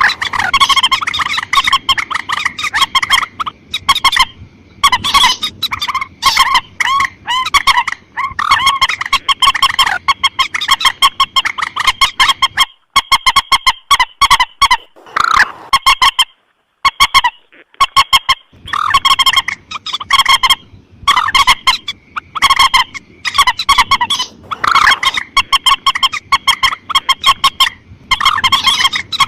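Recorded lure calls of a mandar sawah rail: loud, rapid runs of repeated honking notes in bursts of several seconds, with short breaks between runs.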